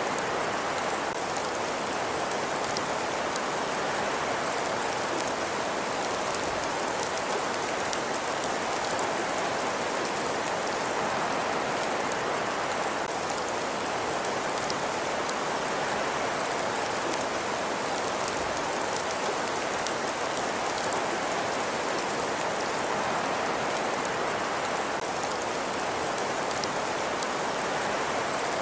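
Steady, even rain-like hiss with faint fine crackles, from a looped ambience track.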